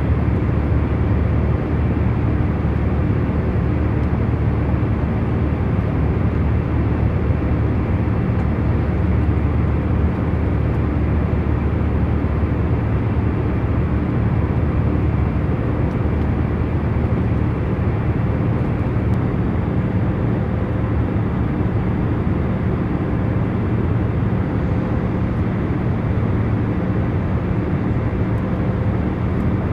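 Jet airliner cabin noise at cruise: a steady, deep rumble of engines and airflow with a few faint steady hums in it, unchanging throughout.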